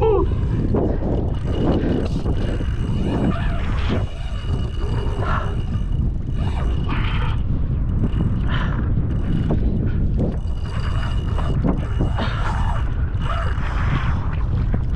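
Fishing reel clicking and rasping in repeated short bursts as line is worked against a heavy fish, over a steady low rumble of wind and water.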